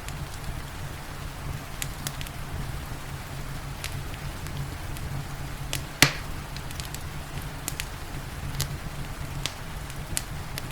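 Wood fire crackling, with scattered sharp pops and one loud pop about six seconds in, over a steady low rumble and the even hiss of rain.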